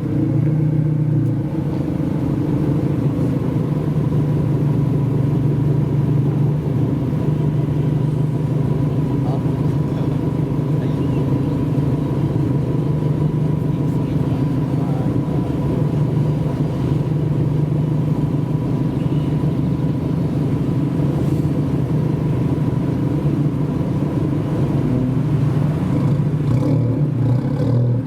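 Modified car's engine idling steadily with a deep, even exhaust note, no revving.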